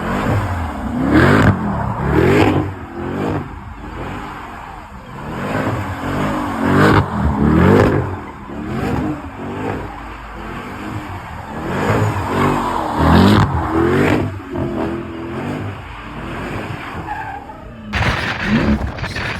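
Car engine revving repeatedly, its pitch rising and falling in waves over and over, with a sudden change in the sound near the end.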